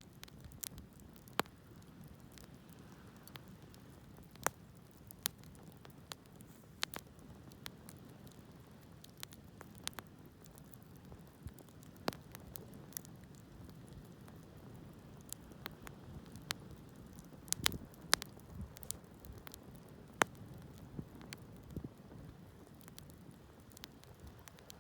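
Campfire burning: wood crackling and popping with sharp snaps at irregular intervals, over a low steady hiss of the flames.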